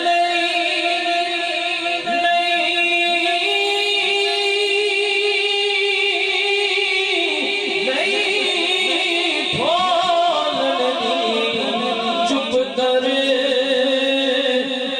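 A naat reciter singing a Punjabi naat, drawing out one long melismatic phrase: held notes, then quick wavering runs of the voice about eight to eleven seconds in.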